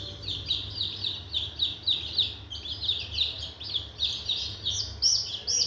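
A group of newly hatched Sonali chicks peeping continuously, many short falling peeps overlapping one another, with a steady low hum underneath.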